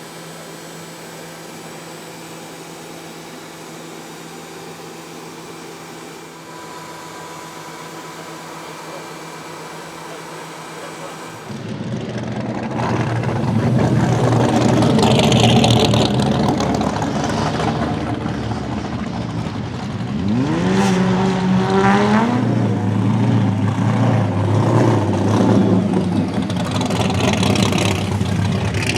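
A steady hum for about the first eleven seconds, then a sudden loud engine sound: a drift car's LS7 427 V8 revving hard, with one long rising rev a little past the middle.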